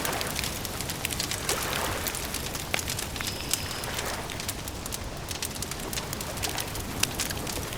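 Campfire crackling, with frequent sharp pops over a steady hiss. A short, high bird note sounds about three and a half seconds in.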